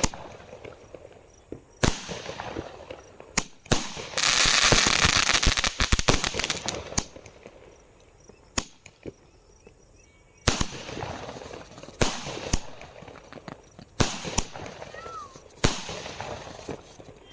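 Fireworks going off: single sharp bangs every second or two, with a dense burst of crackling from about four to seven seconds in.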